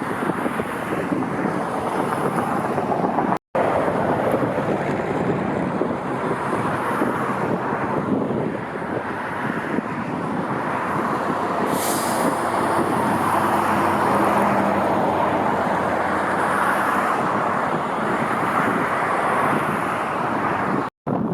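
Jet airliner engines, a loud steady roar that swells a little partway through, broken by two brief silent gaps.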